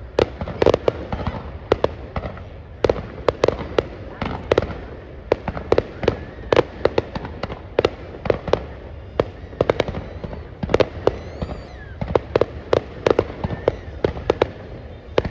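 Fireworks going off in a rapid, irregular string of sharp bangs, several a second, with a whistling rising-and-falling shriek about eleven seconds in.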